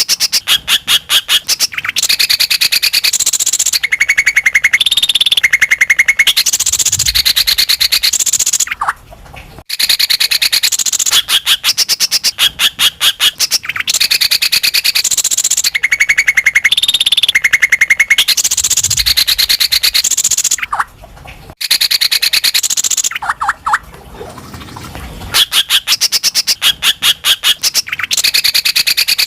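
Greater green leafbird (cucak ijo) singing loudly and continuously in fast trills of rapidly repeated notes. Its phrases switch between high and very high pitches, with two brief pauses.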